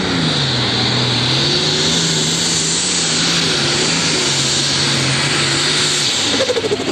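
Super Stock pulling tractor's turbocharged diesel engine running loud, its pitch dropping about half a second in and then held steady, with a high whine over it. The driver is nursing the engine to get the turbocharger spinning. The engine note drops away about six seconds in.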